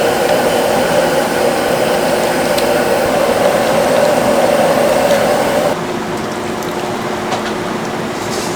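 Steady machine noise with a hum, dropping suddenly to a quieter level a little under six seconds in.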